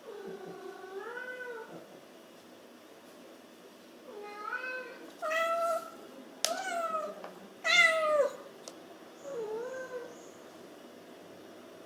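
A cat meowing repeatedly, about six meows, the first one long and drawn out and the loudest about two-thirds of the way through.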